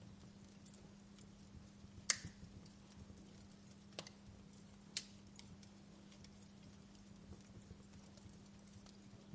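Wood fire crackling faintly: scattered small ticks with three sharper pops, the loudest about two seconds in and two more at about four and five seconds.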